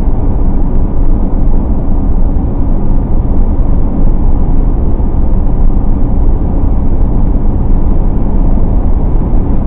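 Steady, loud rumble of road and tyre noise inside a moving car.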